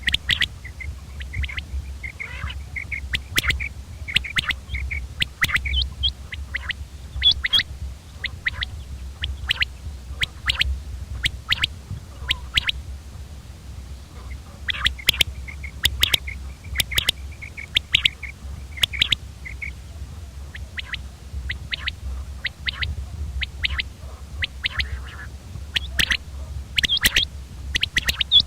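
Common quail calling over and over: short, sharp notes, some in quick runs, with a low steady hum underneath.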